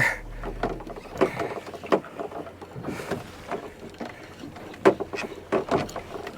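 Irregular knocks and clunks aboard a small flats boat over a faint steady low hum, the loudest about a second in and again around five to six seconds in.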